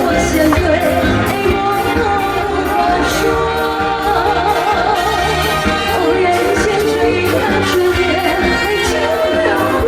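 A woman singing a pop ballad live with band accompaniment and a steady drum beat.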